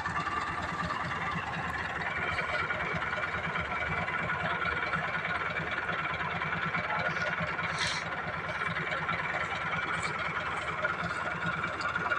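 Tractor's diesel engine running steadily with a pulsing low rumble, with a few brief clicks about eight seconds in.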